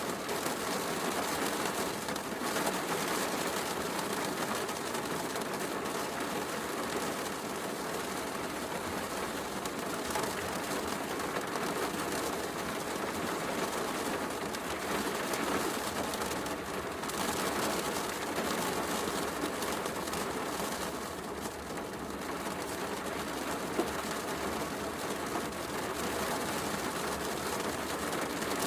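Steady heavy rain, an even dense hiss, with the soft crackle of a wood fire and one sharp pop near the end.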